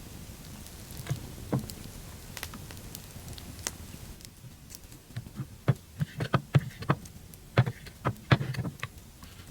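A string of irregular knocks and taps, a few scattered early on, then a quick cluster of them through the second half.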